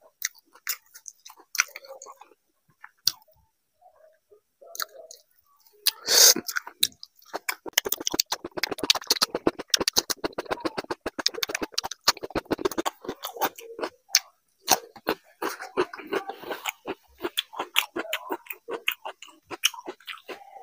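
Close-miked chewing of a mouthful eaten by hand, with quick wet smacking and clicking mouth sounds. The sounds come sparse at first, with a louder burst near six seconds, then dense and continuous from about seven seconds in.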